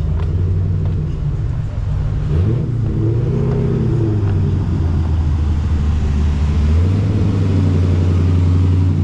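A car engine running close by at idle, revved once with a rise and fall in pitch a couple of seconds in, then settling at a new steady pitch about seven seconds in.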